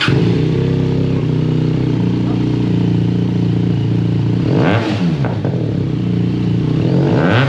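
A QJ Motor SRK 400 inline-twin motorcycle engine comes in suddenly and runs at a steady idle. It is blipped twice, about five seconds in and again near the end, the pitch rising and falling quickly each time.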